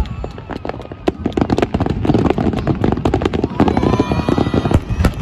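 Fireworks finale barrage: aerial shells bursting in quick succession, a dense run of overlapping bangs.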